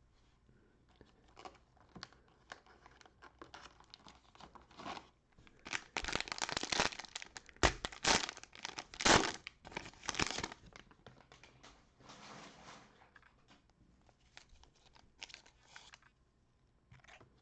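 Cellophane wrapping on a 2020-21 Panini Prizm basketball cello box being torn open and crumpled by hand. The crinkling and ripping is loudest in a run of sharp tears in the middle.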